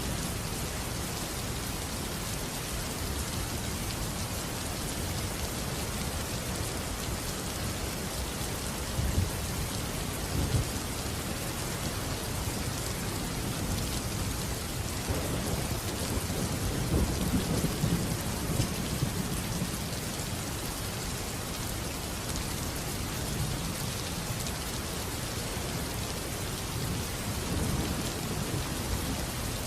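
Steady heavy rain falling, with low rolls of thunder rumbling through it, strongest about halfway through.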